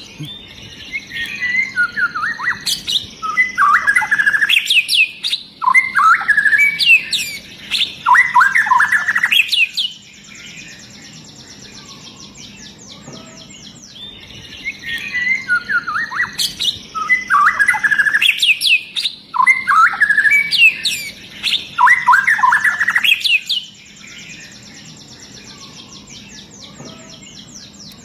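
White-rumped shama singing: two bursts of song, each about ten seconds long, made of fast, high, rising whistles and rapid trilled phrases, with quieter pauses between them.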